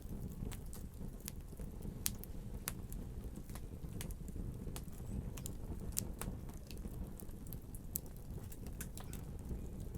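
Wood fire burning in a fireplace: a steady low rumble of the flames with irregular sharp crackles and pops, about one or two a second.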